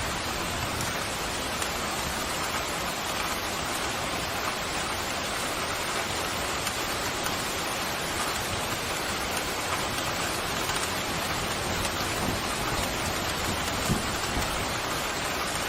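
Steady pouring rain, an even hiss of drops, with a brief low thump near the end.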